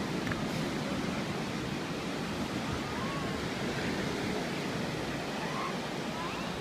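Ocean surf washing on the beach, a steady rush of noise, with wind buffeting the microphone.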